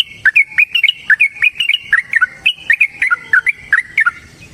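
Yellow-vented bulbul (trucukan) singing a long, rapid rolling song of short, sharp whistled notes, about five or six a second, that stops shortly before the end.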